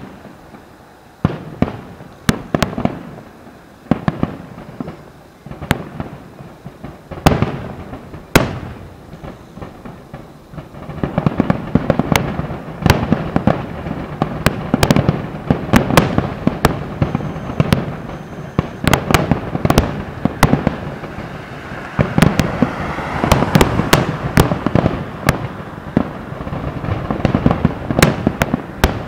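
Aerial fireworks shells bursting: separate sharp bangs at first, then from about a third of the way in a dense, near-continuous barrage of booms and crackle.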